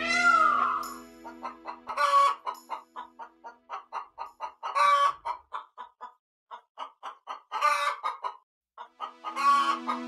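Domestic hens clucking: a run of short clucks, about three a second, broken by louder drawn-out cackles every two or three seconds. In the first second another animal's drawn-out gliding call fades out.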